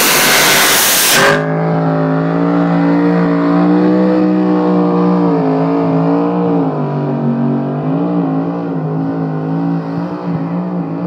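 Pulling tractor's engine at full throttle under load: a loud rushing roar that drops away abruptly about a second in, then a steady engine note with a wavering, dipping pitch.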